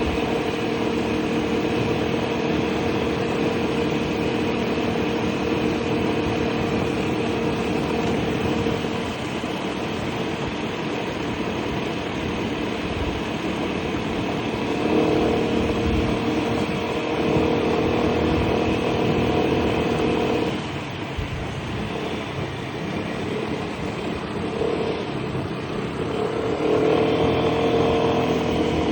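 Piaggio Liberty 125 scooter's single-cylinder four-stroke engine running under way, with a steady rush of wind and road noise. The engine note picks up about halfway through, eases off a few seconds later, and picks up again near the end.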